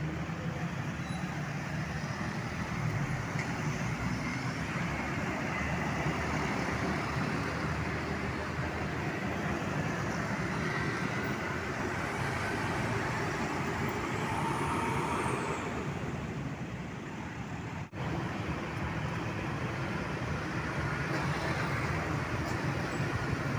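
Steady road traffic with heavy trucks and buses passing, their diesel engines running, with a brief cut in the sound about three-quarters of the way through.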